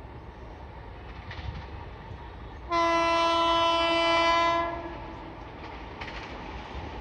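Indian Railways locomotive horn sounding one steady blast of about two seconds, a single note with many overtones, over the rumble of the running train.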